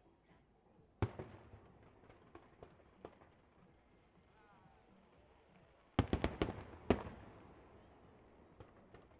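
Fireworks shells bursting: one sharp bang about a second in, a few scattered lighter pops, then a rapid volley of six or seven loud bangs about six seconds in.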